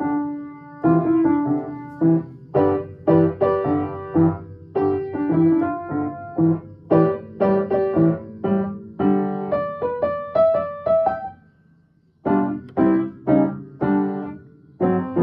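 Piano playing a blues piece, with rhythmic struck chords and melody notes. The playing breaks off briefly a little after eleven seconds in, then picks up again with repeated chords.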